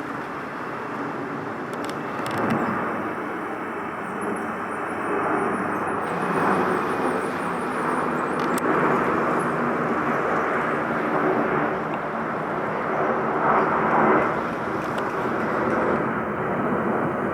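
Steady outdoor rumble of distant engines, swelling and fading slightly, with a faint low hum running under it.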